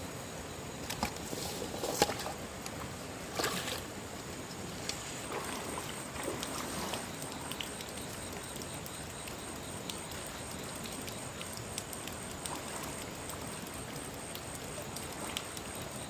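Steady rush of flowing stream water, with a few sharp knocks and taps in the first few seconds, the loudest about two seconds in.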